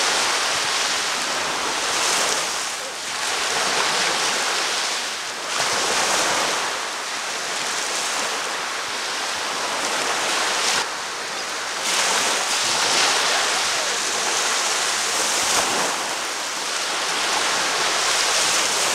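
Gulf surf breaking and washing up a sandy beach: a continuous rush of water that swells and eases every two seconds or so, with a brief lull a little past the middle.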